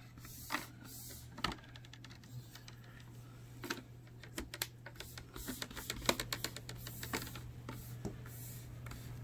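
Plastic laptop screen bezel being pressed back into place, its clips snapping in with a series of small, irregular clicks, more of them in the second half.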